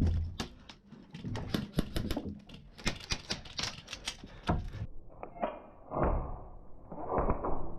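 Airsoft guns firing, rapid strings of sharp shots one after another. About five seconds in the sound turns duller and more muffled, with a few short bursts.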